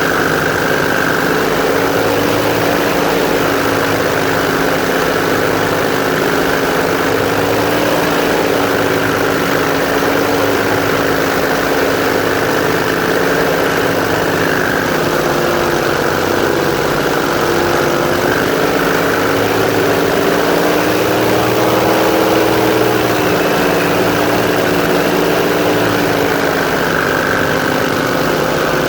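Airboat's engine and air propeller running steadily and loudly under way, the pitch drifting slightly up and down as the throttle shifts.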